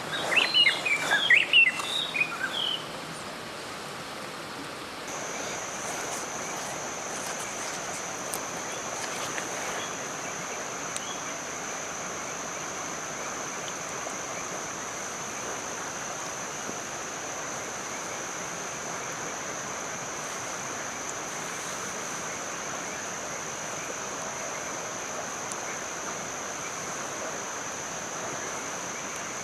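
Steady rain hiss. In the first three seconds come several short, high chirping calls that rise and fall. From about five seconds in, a thin, steady high-pitched whine sounds over it.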